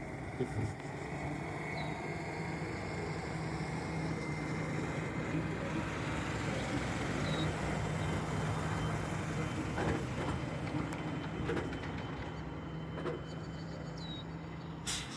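Road traffic with a low engine hum, swelling and fading as a vehicle passes.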